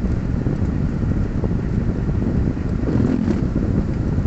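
Steady low rumble of a car engine idling, heard from inside the stationary car's cabin.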